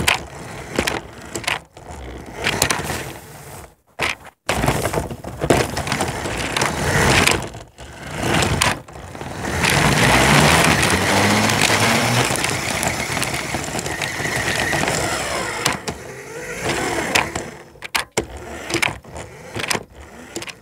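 Toy RC car's electric motor whirring, with a steady whine for several seconds in the middle, among repeated clattering knocks as the car runs into and over Lego pieces.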